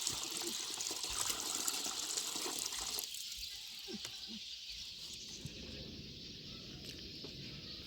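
Water trickling steadily, its hiss easing a little after about three seconds.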